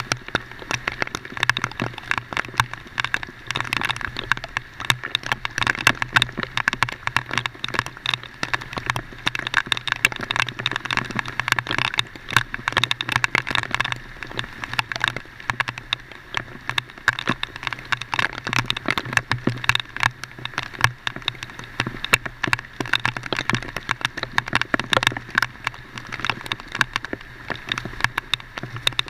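Heavy rain falling, with dense, irregular drop impacts over a steady low hum.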